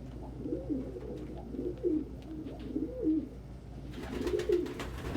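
Domestic pigeons cooing, a run of low coos that rise and fall in pitch, repeated over and over. A rustling noise joins about four seconds in.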